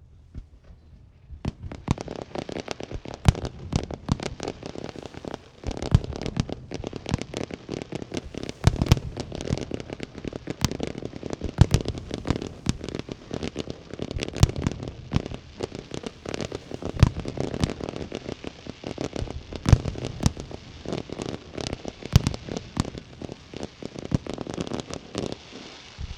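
Aerial fireworks display: about a second and a half in, a rapid barrage of shell bursts and dense crackling starts and keeps going, with heavier bangs every few seconds.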